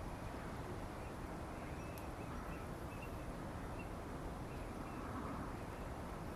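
Quiet outdoor background with a steady faint hiss and a few faint, short, high bird calls from distant birds, plus a faint click about two seconds in.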